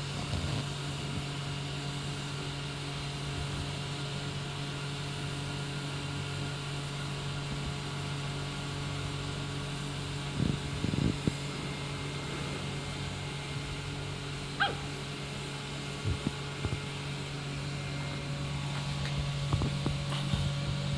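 A dog gives a few short, scattered barks and yelps, the first about ten seconds in, over a steady low hum.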